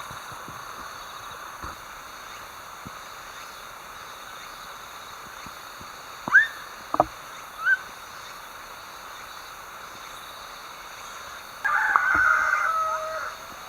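Outdoor animal calls: three short bird calls that glide in pitch, then a longer held call near the end, over a steady background hum of insects.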